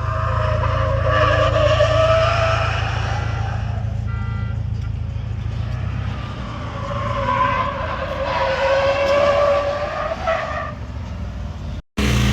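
Car tyres squealing in two long, drawn-out screeches with wavering pitch over a steady low engine rumble. The sound cuts out briefly near the end.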